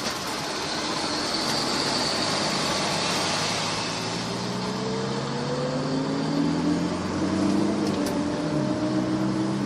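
Car driving: steady road and tyre noise, with the engine note rising as the car speeds up from about four seconds in, dipping briefly and picking up again near the end.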